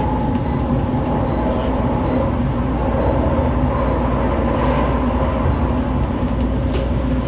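Inside a CAF Urbos 3 tram running between stops: a steady rumble of steel wheels on the rails with a constant hum from the traction equipment, and a few faint clicks.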